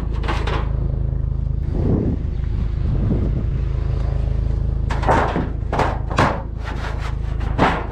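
Pieces of scrap being shifted and dragged in a truck bed, several short scrapes and knocks, the loudest cluster from about five seconds in, over a steady low rumble.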